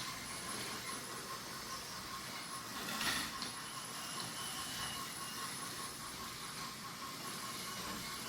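Several battery-powered toy trains running on wooden track, their small motors whirring steadily over the rattle of wheels, with one brief louder clatter about three seconds in.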